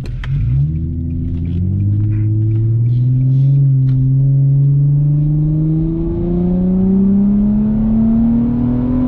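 Infiniti G35's 3.5-litre V6 pulling hard through a gear with its muffler deleted, the exhaust note climbing steadily as the revs rise after a brief dip at the start.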